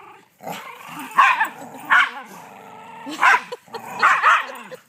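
Dogs making play noises in a tug-of-war over a toy: about five short, loud barks and yips, the last two close together near the end.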